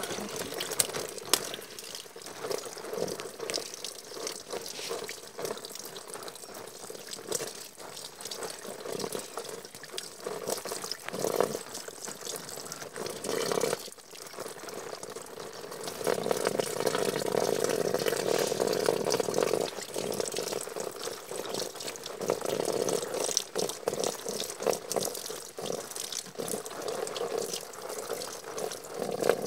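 Water running from a tap and splashing, with frequent small knocks and clatter, as in washing at a sink. It gets louder for a few seconds past the middle.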